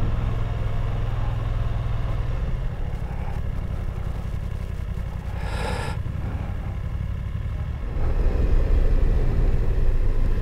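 Onboard motorcycle engine running on a slow mountain road. The engine eases off about two seconds in, a short high tone sounds about halfway through, and the engine picks up and gets louder near the end as the bike accelerates again.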